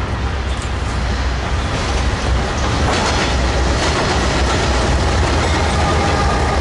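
BNSF freight train passing close by behind several diesel locomotives. A deep engine rumble grows louder over the first couple of seconds as the lead units arrive, then holds, with the wheels clacking over the rails.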